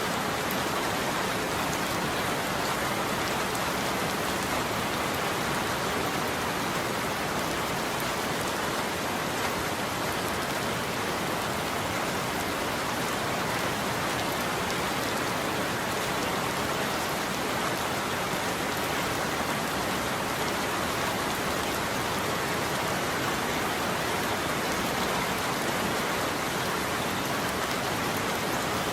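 Steady heavy rain falling on a roof.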